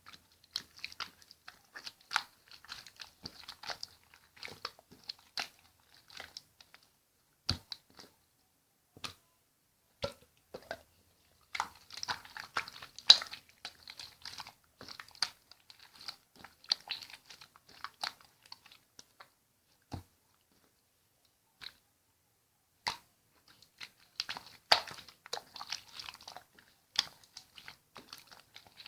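Slime being squished and worked by hand: irregular sticky clicks and crackles that come in clusters, with short pauses between them.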